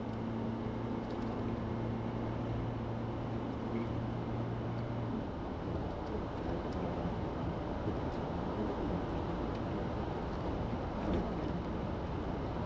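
Steady road and tyre noise of a car driving, heard from inside the cabin, with a low steady hum that stops about five seconds in.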